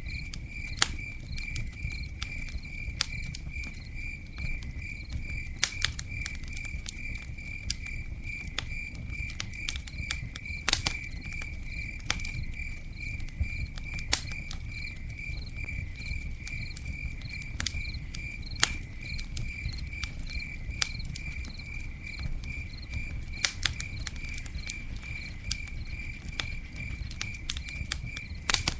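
Campfire crackling, with sharp irregular pops from the burning wood over a low steady rumble. An insect chirps in a fast, even, high-pitched pulse throughout.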